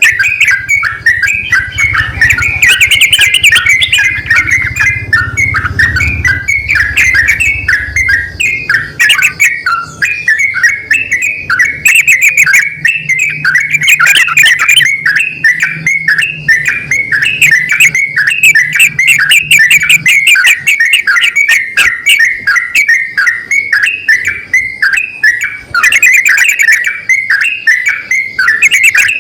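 Male and female yellow-vented bulbuls (trucukan) calling back and forth in a continuous run of quick chattering notes.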